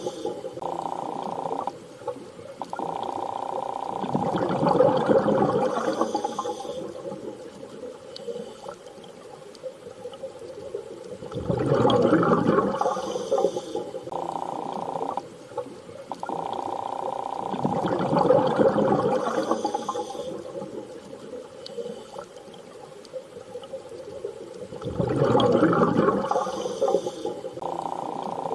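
Underwater ambience: a rushing, bubbling swell rises and fades about every six to seven seconds. Between the swells, steady whale-like humming tones start and stop.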